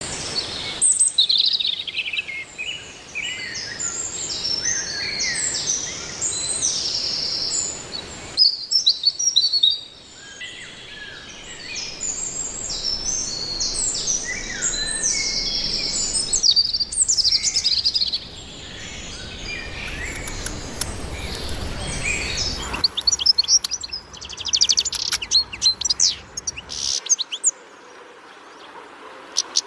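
Several birds chirping and singing at once, short overlapping calls and trills. Rapid trills come in near the end, and the low background noise under the song changes abruptly a few times, as at splices between recordings.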